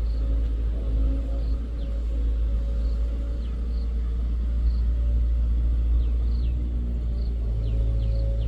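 Excavator's diesel engine running with a steady deep rumble.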